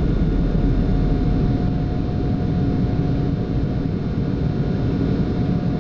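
Steady rushing noise on a Boeing 747-8 flight deck in the initial climb just after takeoff, with a faint steady whine running through it.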